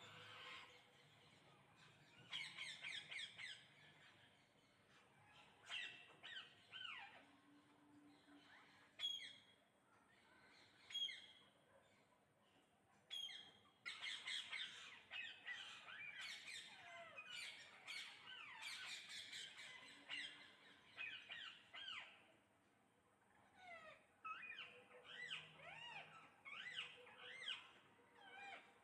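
A flock of parrots calling: many shrill, squawking calls from several birds at once, coming in bursts with short lulls between, busiest in the second half.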